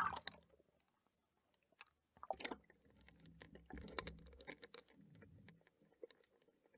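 Underwater recording: scattered sharp clicks and crackles over a low, uneven rumble of moving water, with a louder knock or splash right at the start and a brief lull after it.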